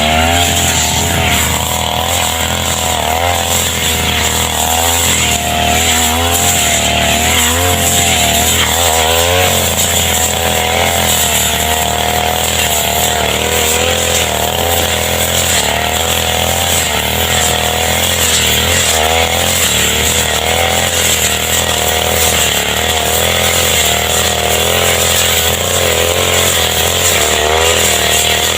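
Petrol brush cutter running at high revs while cutting roadside grass, its engine pitch wavering up and down without a break.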